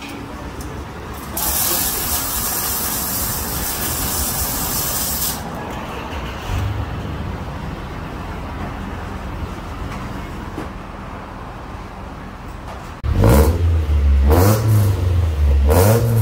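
A loud hiss for about four seconds, then an Acura Integra's four-cylinder engine blipped several times near the end, its pitch rising and falling with each rev.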